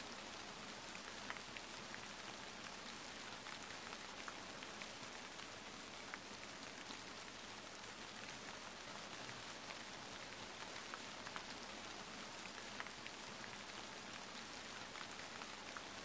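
Steady, faint rain falling, with scattered light drops ticking.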